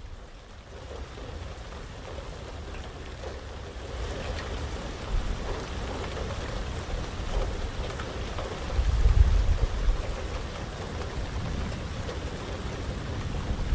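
Heavy rain falling steadily and growing louder over the first few seconds, with a low rumble of thunder swelling about nine seconds in and another starting near the end.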